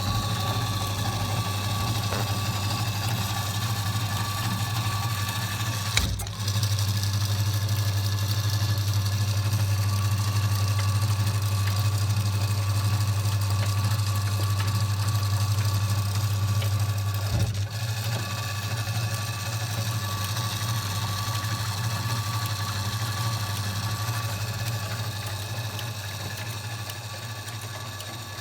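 Kenwood washing machine running with a steady low hum and a thin steady whine above it. Two short clicks come about six and seventeen seconds in, and the hum fades away near the end.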